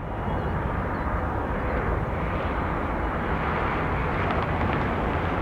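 Jet engines of a departing Airbus A321neo, a steady rushing noise at an even level.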